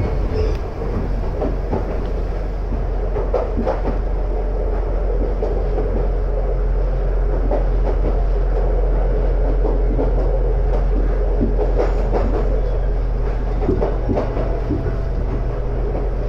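Running noise inside an Iga Railway electric train car, a converted former Tokyu car: a steady rumble of the wheels on the rails, with scattered clacks from the rail joints.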